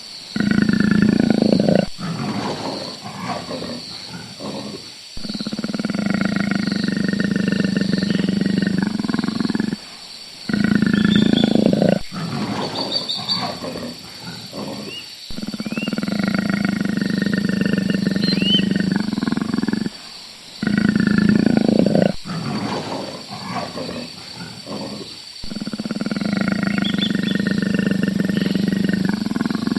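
A big cat roaring and growling in long, low calls of several seconds each, which break off abruptly and start again, while birds chirp faintly in the background.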